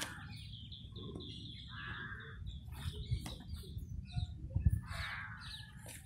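Birds calling, one call about every two to three seconds with thinner chirps in between, over a low rumble with a couple of thuds just past halfway.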